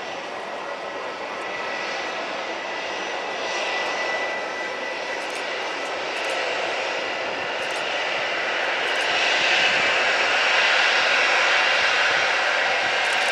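Airliner engine noise growing louder over several seconds as the aircraft passes, with a faint steady whine in the first half.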